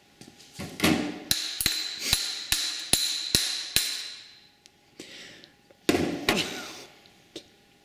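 Hammer blows on metal dirt bike wheel-bearing and axle parts: a run of about seven ringing strikes, roughly two a second, with shorter scraping and handling noises before and after.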